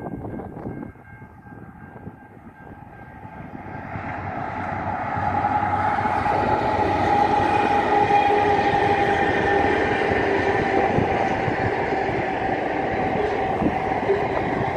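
Diesel-hauled freight train crossing a level crossing. It grows louder over the first few seconds as the locomotive arrives, then the wagons rumble past steadily.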